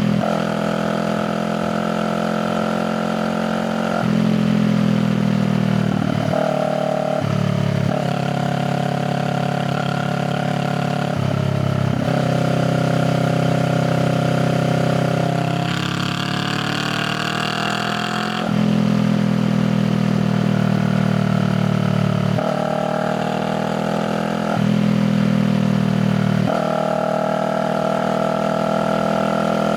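Honda Rebel 500's parallel-twin engine through a raw, open exhaust, running under way. Its pitch steps up and down every few seconds as the throttle changes, with one rising rev a little past the middle.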